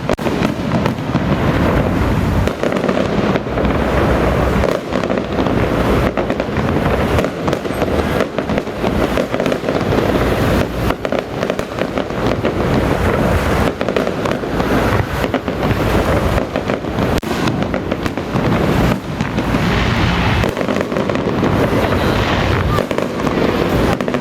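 Firecrackers going off in a dense, continuous string, many small bangs merging into one long crackle that does not let up.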